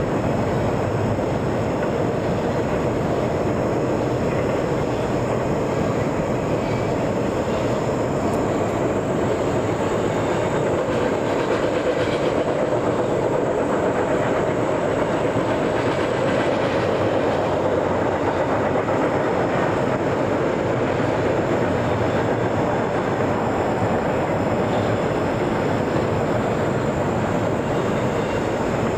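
A train rolling past, with the steady, unbroken noise of its wheels on the rails.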